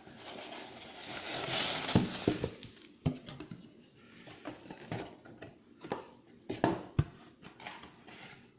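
A watch box being pulled out of its cardboard outer box: a rustling, scraping slide for the first two or three seconds, then scattered light knocks and taps as the boxes are handled.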